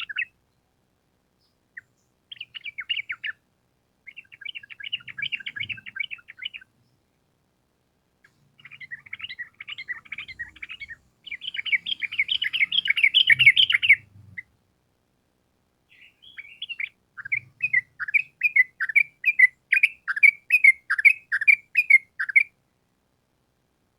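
Yellow-vented bulbul (trucukan) singing in repeated phrases of rapid, chattering notes, with short pauses between phrases. The last phrase slows into separate notes, about two or three a second.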